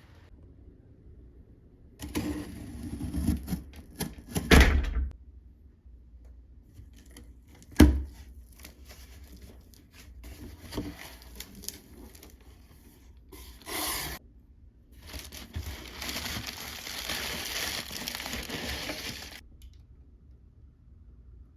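Indoor handling noises: rustling and crinkling in bursts, with two heavy thumps a few seconds apart, scattered clicks and knocks, and a longer stretch of rustling near the end.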